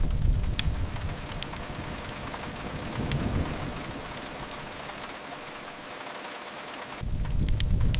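Steady rain hiss with scattered sharp crackles from a wood fire. A low rumble is loudest at the start, fades, swells briefly about three seconds in, and comes back abruptly near the end.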